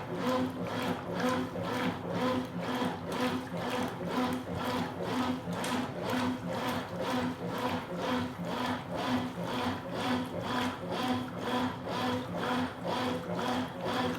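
Consul Supercargo 8 kg top-loading washing machine agitating a load of towels: a steady motor hum and water churning, swelling with each agitator stroke about twice a second. The agitator is moving strongly, its transmission freshly repaired and refilled with oil.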